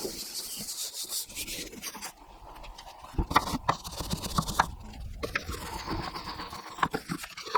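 Detailing brush scrubbing greasy, dirty parts of a car engine bay, an irregular rubbing and scraping with a few sharper knocks in the second half.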